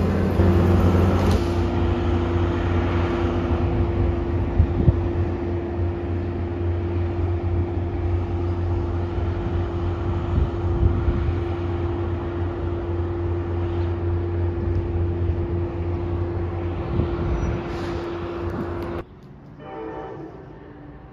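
Diesel locomotive of a Metro-North train running under power with a heavy low drone and a steady whine as the train pulls away, fading slowly. About two seconds before the end the sound cuts off abruptly to a much quieter background.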